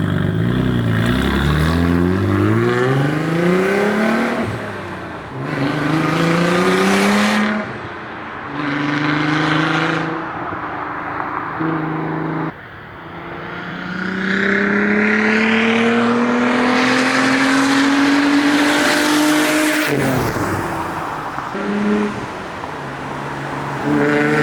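Straight-piped exhaust of a B5 Audi S4's twin-turbo V6 accelerating through the gears: the revs climb several times, each climb broken by a sudden drop at a shift, with one long pull near the middle that cuts off sharply, then running steadier at lower revs.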